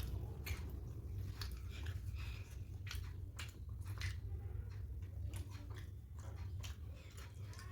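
A person chewing and biting into soft poori with curry close to the microphone: irregular wet mouth clicks and smacks over a steady low hum.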